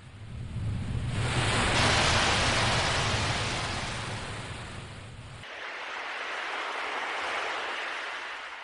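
Ocean waves breaking and washing up: a loud surge building about a second in and ebbing away, then a second, softer wave.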